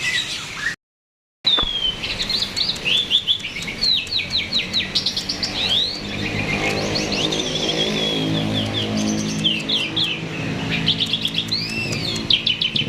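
Jalak (starling) singing a fast, continuous run of chirps and whistled notes, the non-stop 'gacor' song. The sound cuts out briefly just under a second in, and a low steady hum sits underneath from about six seconds in.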